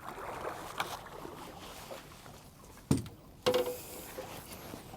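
Water sloshing and dripping against a small boat, with two sharp knocks about three seconds in, half a second apart.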